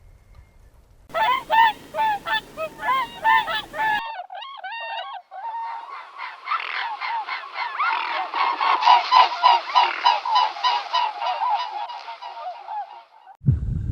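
Waterfowl honking: a quick run of repeated honks, then, after a cut about five seconds in, a whole flock calling over one another.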